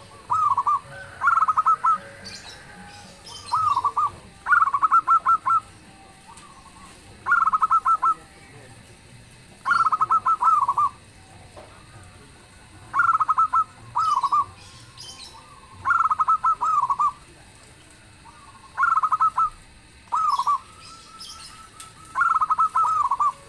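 Zebra dove (perkutut) cooing: about a dozen short phrases of rapid, trilled coo notes, repeating every two seconds or so. Faint high chirps sound between the phrases.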